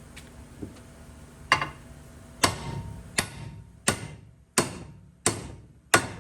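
Hammer blows on steel, seven sharp ringing strikes about two thirds of a second apart, knocking an old ball joint out of a control arm.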